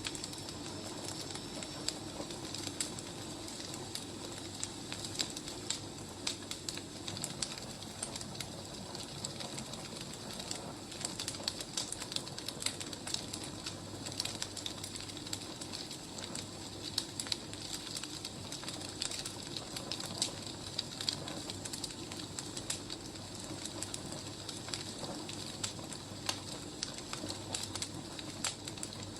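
Wood fire burning, with irregular sharp crackles and pops from the logs over a steady low rush.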